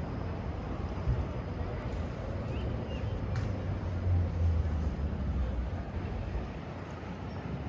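Urban outdoor background noise: a steady low rumble under a broad hiss, with one sharp click about three and a half seconds in.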